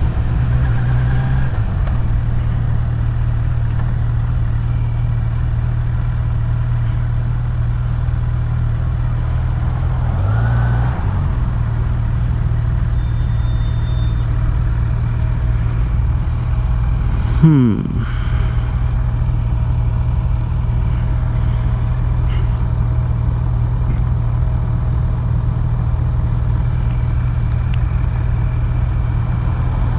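Kawasaki Z900 inline-four engine running steadily at low revs while riding slowly through town, with a slight rise and fall in pitch about ten seconds in. About seventeen seconds in comes a quick falling sweep in pitch with a sudden loud peak.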